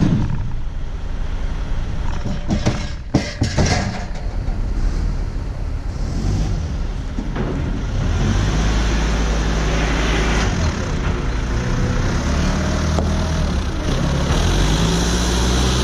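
A heavy vehicle's engine running steadily, with a few sharp knocks and clatters about three seconds in; the engine gets louder from about halfway through.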